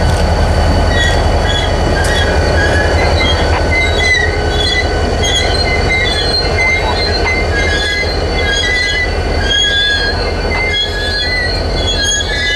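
A diesel-hauled passenger train rolling past close by, the locomotive's engine giving a steady low rumble as it goes by. Short high-pitched squeals from the wheels on the rail recur throughout.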